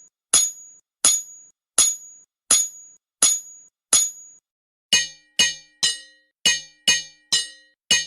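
Rhythmic metallic clinks: a single sharp, high-ringing strike about every three-quarters of a second, then from about five seconds in a faster run of strikes, about two a second, with a lower, fuller clang.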